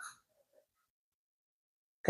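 Near silence, with only a faint brief soft sound at the very start.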